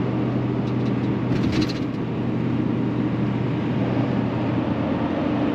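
Steady road and engine noise heard from inside a moving car's cabin, with a low hum throughout and a brief high-pitched sound about a second and a half in.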